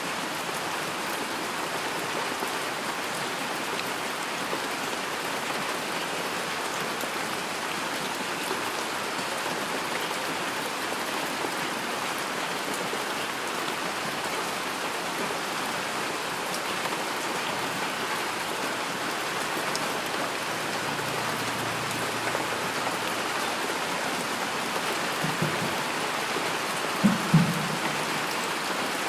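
Steady heavy rain, a dense even hiss of falling drops. Near the end a few short low thumps stand out over it, the loudest sounds here.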